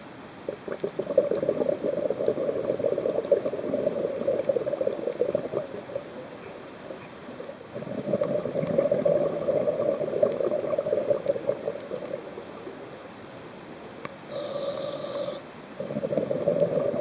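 Scuba diver breathing through a regulator underwater: two long bubbling exhalations, a short hissing inhale near the end, then another exhalation begins.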